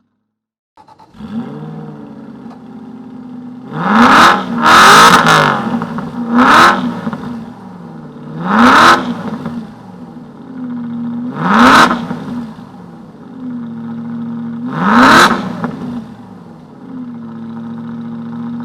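Aston Martin V8 Vantage's V8 engine and exhaust firing up about a second in and settling to idle. It is then revved in seven short, sharp throttle blips, the first two close together, each rising quickly and falling back to idle.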